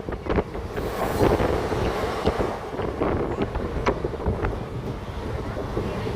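Passenger train running along the track, heard with wind buffeting the microphone: a steady rumble with a few short sharp clicks.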